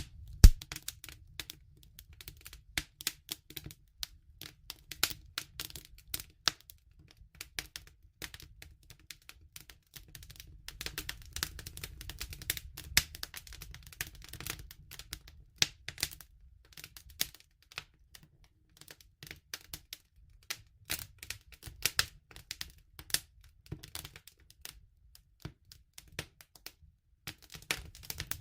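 Wood fire crackling: irregular sharp pops and snaps, a loud pop about half a second in, over a low steady rumble.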